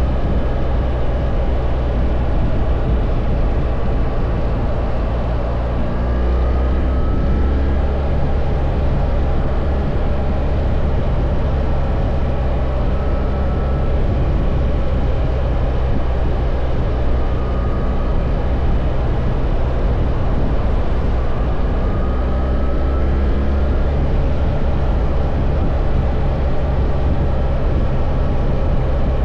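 BMW R1300 GS boxer-twin engine running steadily while riding, with a steady rush of noise over it. A few times its pitch briefly rises as the bike accelerates.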